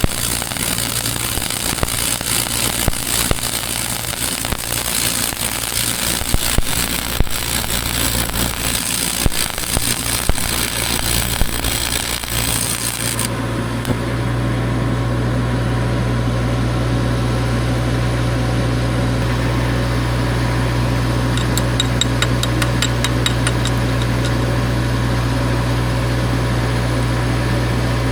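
Electric welding arc crackling and sizzling steadily, stopping abruptly about 13 seconds in. An engine keeps running with a steady low hum, which is all that is left once the arc stops, with a brief run of light clicks partway through.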